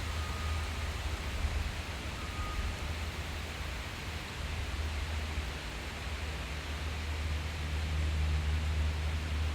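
Steady forest ambience: an even hiss over a constant low rumble, with a faint thin whistle-like tone twice in the first three seconds.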